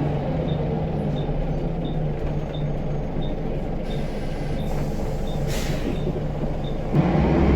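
Scania L94UB bus's diesel engine idling, heard from inside the bus, with a soft steady ticking about one and a half times a second. A brief hiss of air a little past halfway, then the engine revs up near the end as the bus pulls away.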